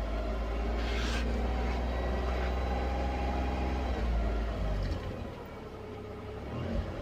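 Tata Tigor car engine revved by the accelerator pedal and held at high revs, then dropping back towards idle about four to five seconds in, before picking up again near the end.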